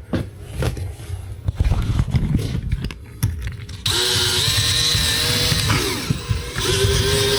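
Cordless drill running at a screw for about four seconds, starting about four seconds in, its motor pitch shifting as it runs. Before it there are scattered knocks and scrapes.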